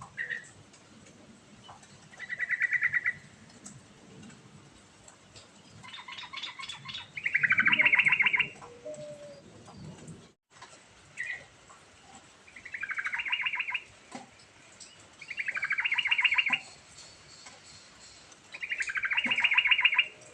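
Yellow-vented bulbul (trucukan) singing: loud phrases of rapid chattering notes, each about a second long, repeated roughly every three seconds.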